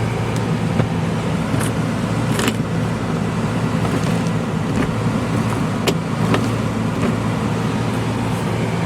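An older car idling with its heater running: a steady low hum, with a few light clicks scattered through it.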